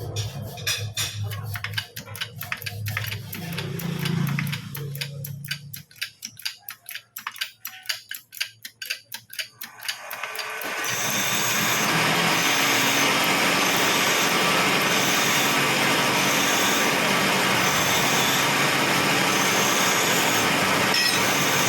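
Rapid, even tapping, about five knocks a second, as a wheel bearing is driven down into an alloy hub, stopping about ten seconds in. A loud, steady machine noise then takes over.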